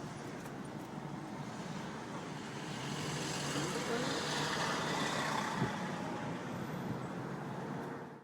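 Road traffic noise, with a vehicle growing louder as it passes about halfway through and then fading.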